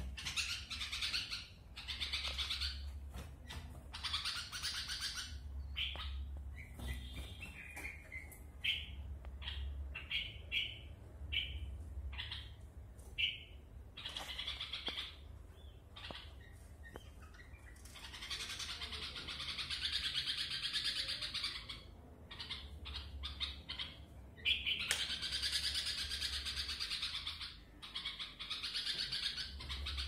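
A young bird calling over and over with harsh, raspy chirps: a run of short separate chirps in the middle, then long unbroken raspy stretches later on.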